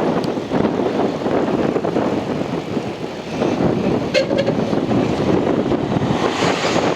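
Wind buffeting the microphone and the rush of a bicycle coasting fast downhill, a loud fluttering noise throughout, with a brief squeak about four seconds in.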